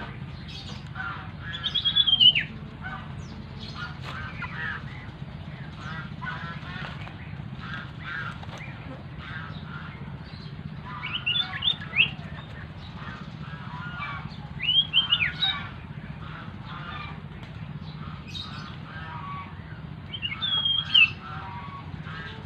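Birds called sirtu or cito chirping continuously, with four louder phrases of sharply falling whistled notes, about 2, 11, 15 and 21 seconds in. A steady low hum runs underneath.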